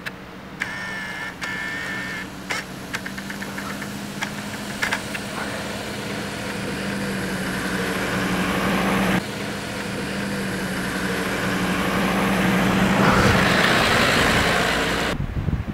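Car engine running at low revs, a steady hum that grows gradually louder, with a few clicks in the first seconds.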